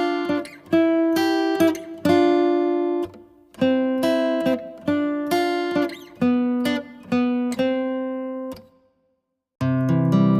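Acoustic guitar playing a short tune of quickly plucked single notes that rings out and stops. After about a second of silence, a new, fuller strummed chord starts near the end.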